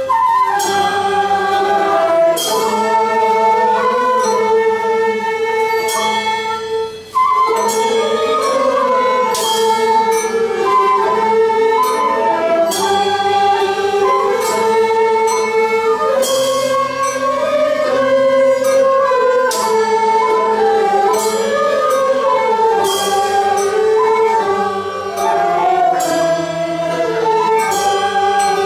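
Traditional Nanguan ensemble music: sustained, wavering melody lines over plucked notes, with a sharp strike every three seconds or so.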